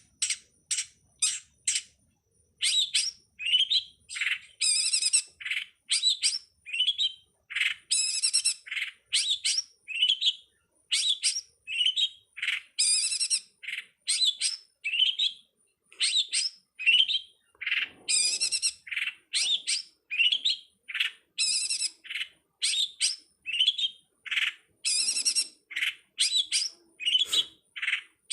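A bird, given in the title as the cowet/codet/pentet (long-tailed shrike), calling in a fast, unbroken series of short, sharp, high chirps, about two to three a second, with one brief pause about two seconds in.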